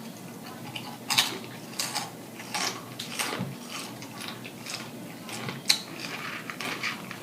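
Crunchy spicy snack chips being chewed close to the microphone: irregular sharp crunches and crackles, about a dozen over several seconds.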